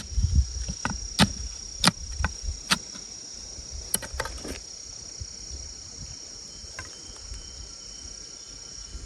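An insect's steady high-pitched drone, which stops shortly before the end, under a run of about nine sharp knocks, irregularly spaced, in the first half.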